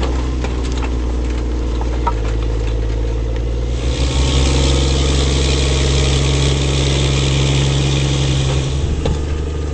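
The Challenger MT765D tracked tractor's six-cylinder, 8.4-litre diesel engine running steadily. A few clicks come in the first couple of seconds, and a rushing hiss rises over the engine at about four seconds and fades just before the end.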